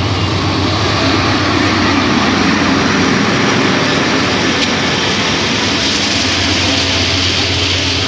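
Freight train passing close by: a diesel locomotive's engine drones steadily under the loud, continuous rumble and clatter of the steel wheels of grain hopper cars on the rails.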